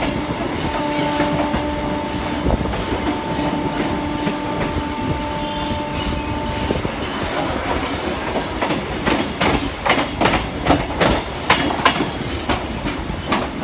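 Electric suburban local train running on the rails, with a steady hum for the first half, then the wheels clattering irregularly over rail joints and points for the rest.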